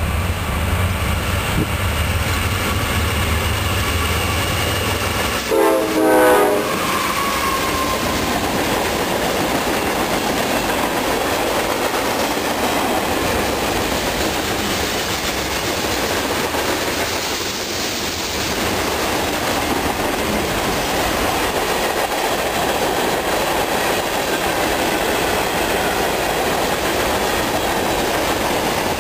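CSX freight train passing close by: the diesel locomotives rumble as they approach, a short horn blast sounds about six seconds in as they go by, then the freight cars roll past with a steady clatter of wheels on rail.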